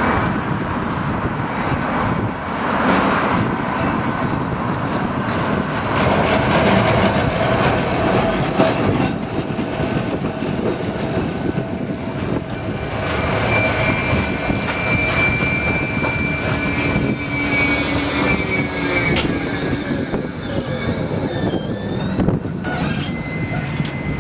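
Blackpool tram running along street track, with steady wheel and motor noise; a high steel-wheel squeal sets in about halfway and bends down in pitch as it fades a few seconds later.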